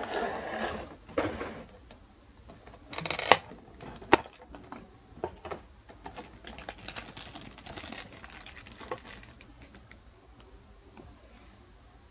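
Packaging handled by hand: rustling and crinkling of plastic and cardboard, with a few sharp clicks and taps, the loudest about three and four seconds in. The crinkling goes on until about nine seconds in, then only faint handling.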